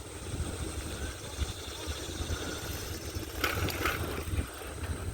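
Wind rumbling on the microphone and road noise while riding a bicycle, with a brief scuffing noise about three and a half seconds in.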